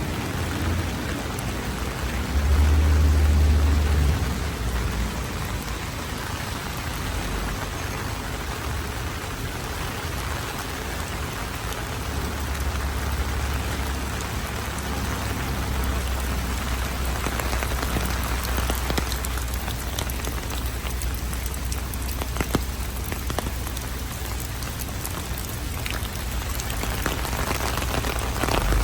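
Heavy rain falling and pattering on surfaces, a steady hiss, under a low rumble that swells about three seconds in and again through the second half.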